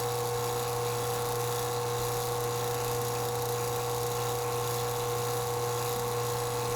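HVAC vacuum pump running steadily with an even motor hum and whine, pulling an air-conditioner coil down to a deep vacuum of around 140 microns.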